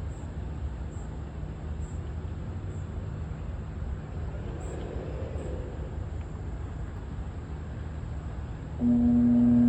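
Steady low rumble, then near the end a direct-drive exhaust hood fan motor, fitted with a new capacitor in place of a swollen one, switches on suddenly with a loud, steady hum: the motor starting after the repair.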